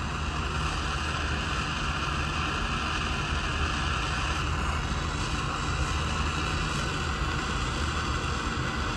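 Metal-melting furnace running with a steady rushing noise over a low hum.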